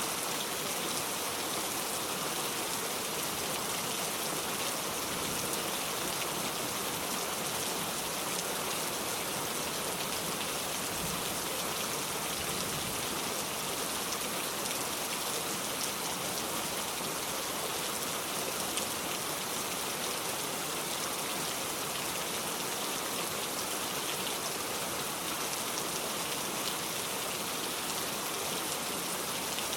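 Steady heavy rain, an even continuous hiss of falling drops with no change in level.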